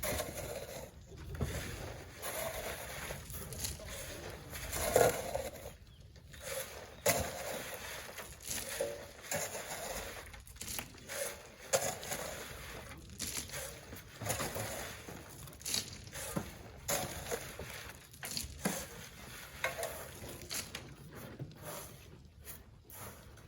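Shovels scraping into sand and tossing it, an irregular run of gritty scrapes and crunches, the loudest about five seconds in.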